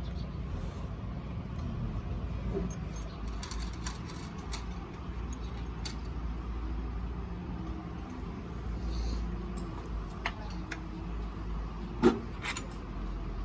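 Small metal clinks and taps from tools or parts being handled, with a sharp metallic knock about twelve seconds in, over a steady low rumble.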